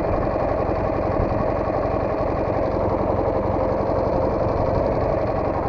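Soviet motorcycle engine running steadily, an even rapid pulsing with no revving.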